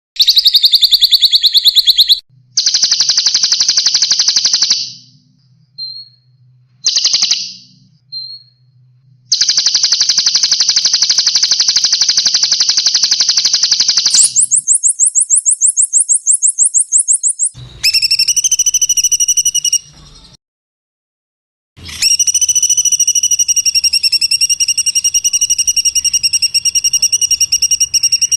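A spliced sequence of recorded songbird calls used as masteran song material: a fast high trill, long buzzy rattling phrases, a very rapid high trill, then a held, rapidly pulsing call. Each segment starts and stops abruptly, as edited clips do.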